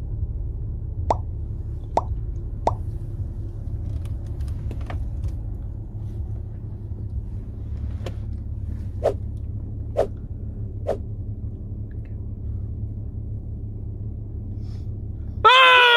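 Water dripping in a tunnel: separate plops every second or so, about eight in all, over a steady low rumble. Near the end a loud pitched sound with falling pitch cuts in suddenly.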